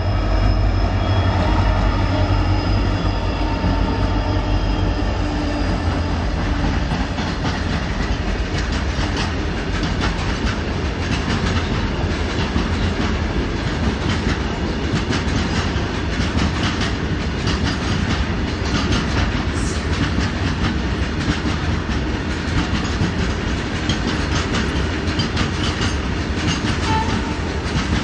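Twin EMD diesel freight locomotives, a WDG-4 and a WDG-4D with 16-cylinder two-stroke engines, pass at speed, their engine drone and whine fading over the first few seconds. Then comes the steady clickety-clack of a long rake of loaded BCNA covered wagons' wheels over the rail joints.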